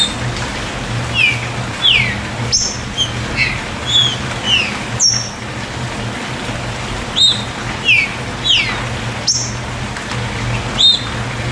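About a dozen short, sharp whistled bird chirps, each a quick slurred note, scattered irregularly over a steady hiss of rain.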